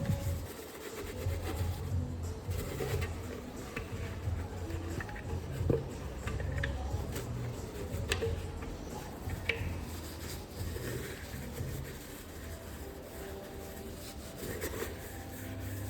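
Rubbing and scraping with scattered light clicks, from a coffee grinder's bean container being cleaned.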